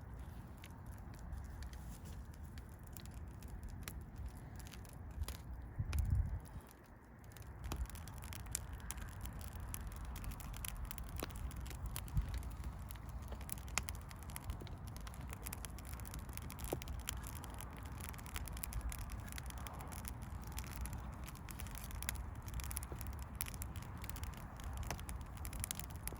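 Firewood burning with scattered sharp crackles and pops over a low rumble; a heavier thump about six seconds in.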